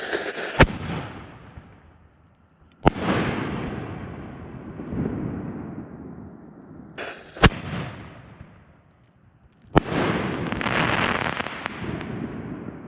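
Winda 'Echo in the Ear' 5-inch canister shells firing: four sharp, loud reports a few seconds apart, each trailing off in a long rumbling echo across the valley, the last followed by a stretch of crackling.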